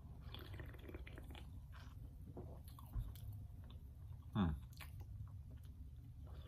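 A person drinking soda from an aluminium can: faint sipping and swallowing sounds, with a soft knock about three seconds in. About four seconds in, after the can is lowered, there is a short vocal sound that falls in pitch.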